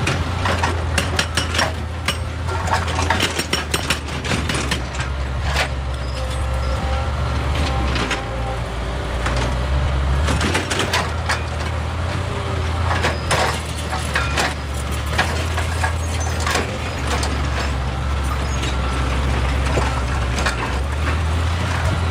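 Excavator working in rock: the engine runs with a steady low hum, while irregular knocks and clatters of stone against steel sound over it.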